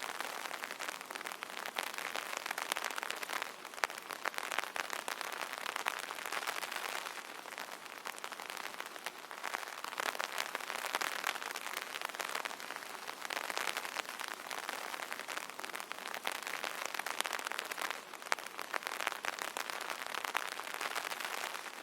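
Steady rain pattering on an umbrella canopy, a dense hiss of countless small drop taps that swells and eases every few seconds.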